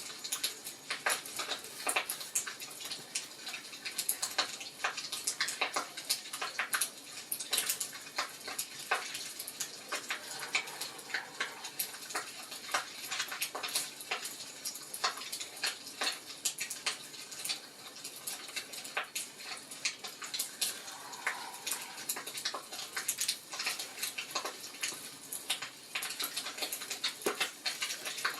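Wood fire crackling in a fireplace: irregular sharp pops and snaps, several a second, over a faint hiss.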